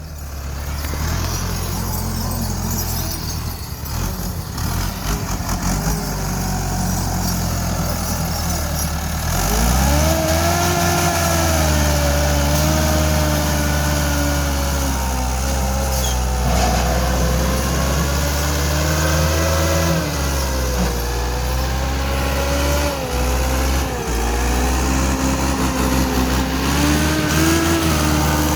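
Massey Ferguson 375 tractor's diesel engine running, with a rising and falling whine from about ten seconds in as the engine speed changes.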